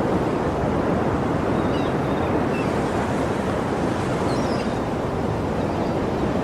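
Sea surf washing continuously: a steady, dense rushing of waves with no single breaker standing out. A few faint, short high chirps sound about two and four seconds in.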